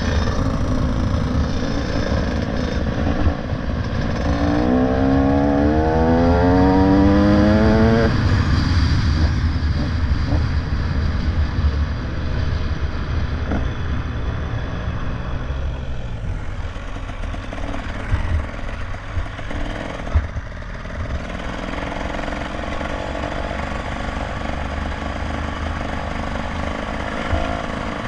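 Motorcycle on the move, with heavy wind rush and road noise on the microphone. About four seconds in, the engine note rises steadily for three to four seconds, then drops away.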